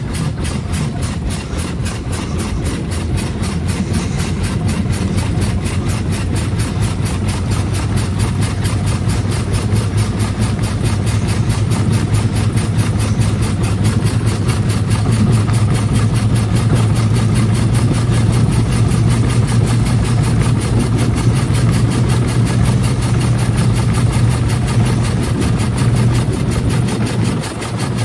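1901 Curved Dash Oldsmobile's single-cylinder engine running steadily under way, with a rapid, even pulse. It grows a little louder about ten seconds in and dips briefly near the end.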